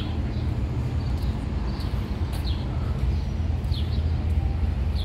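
Small birds chirping in short, high, falling chirps about once a second, over a steady low rumble of outdoor background noise.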